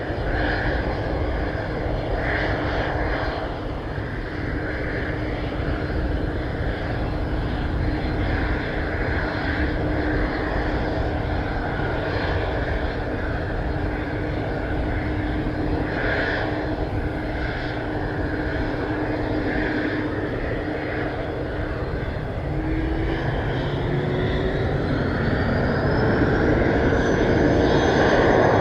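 Airplane engines running steadily with a held hum. In the last several seconds their pitch climbs, with a rising high whine, and they grow louder as power comes up.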